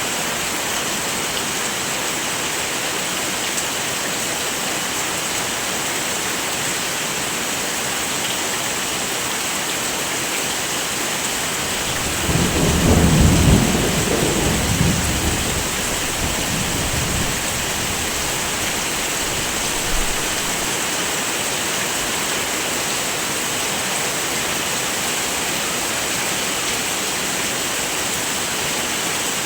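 Steady heavy rain. About twelve seconds in, a low roll of thunder rumbles for roughly five seconds and dies away under the rain.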